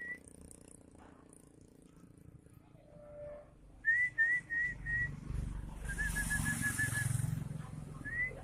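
Runs of short, rising whistled notes: four in quick succession about four seconds in, then a fast string of lower, shorter notes, and one more rising note near the end. A low rumble swells under the middle of it.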